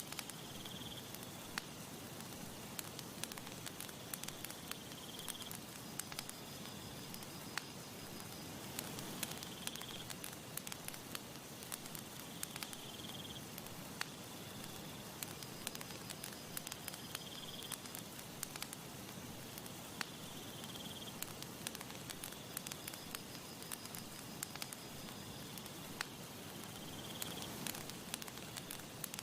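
Campfire burning with a steady soft hiss and frequent sharp crackles and pops of sparking wood, and a faint high chirp that recurs every few seconds.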